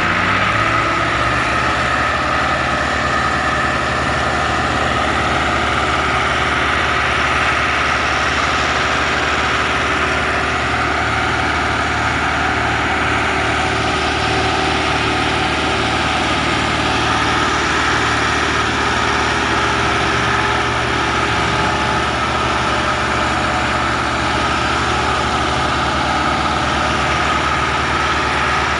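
Massey Ferguson tractor's diesel engine running at a steady, even speed.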